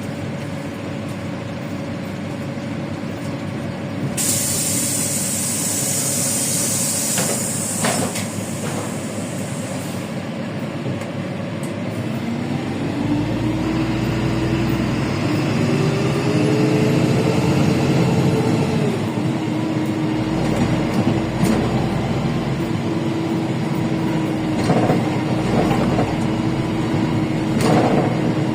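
Inside a LiAZ 5292.65 city bus with a Yuchai engine: compressed air hisses for several seconds from the bus's air system. The engine note then rises as the bus pulls away, drops once at what sounds like a gear change, and settles into a steady run.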